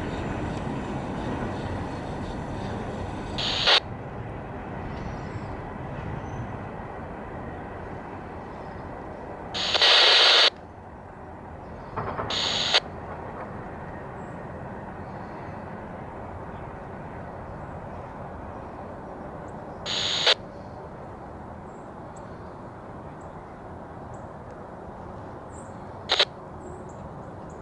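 Freight train of loaded coal hoppers rumbling away and fading, broken by five short, loud high-pitched screeches, the longest about a second long, about ten seconds in: wheels squealing against the rail on the curving track.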